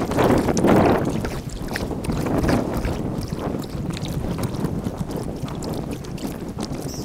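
Wind buffeting the microphone over the water noise and splashes of kayak paddling, played sped up. It is loudest in the first second, then eases off.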